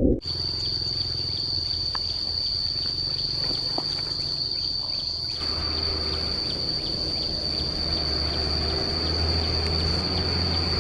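A steady, high-pitched insect trill held without a break, with a low steady hum underneath.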